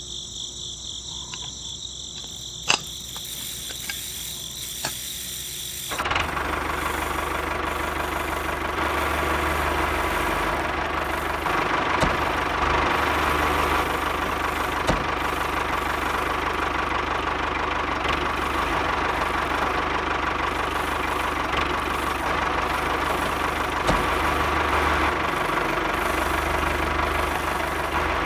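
A small motor running steadily. It comes in loudly about six seconds in, after a quieter stretch with a thin high whine and a few clicks.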